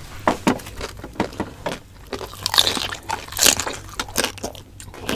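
Close-miked crunching and chewing of crispy roast suckling pig skin: a run of short crackles, loudest about two and a half and three and a half seconds in.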